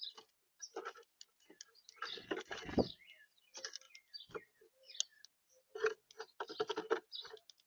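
Irregular ticks and taps from birds pecking and scratching at seed in the feeder right by the camera, with a denser, louder scuffle about two to three seconds in.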